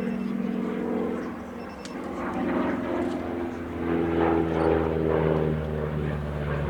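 Pratt & Whitney R-1340 radial engine of a North American T-6 'Super Six' in flight, driving a three-blade propeller. The engine note shifts in pitch, dips a little about two seconds in, then grows louder, loudest a little past the middle.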